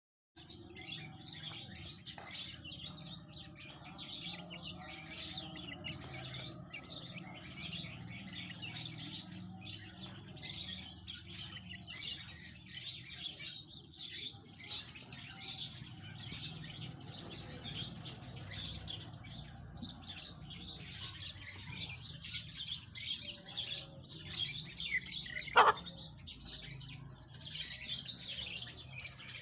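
Many small birds chirping and tweeting continuously over a low steady hum. Near the end one brief, sharp, loud upward-sweeping call stands out.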